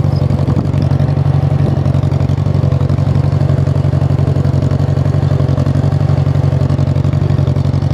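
Tractor engine running steadily with a fast, even pulse and no change in speed.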